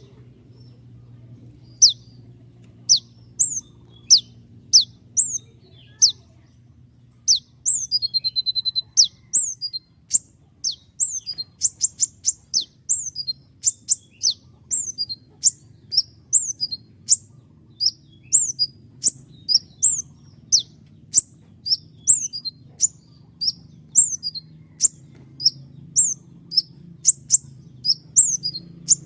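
Konin (kolibri ninja) sunbird singing vigorously: a long run of sharp, high, down-slurred 'shot' notes, with a fast rolled trill about eight seconds in and the notes coming quicker and denser in the second half. A faint steady low hum sits underneath.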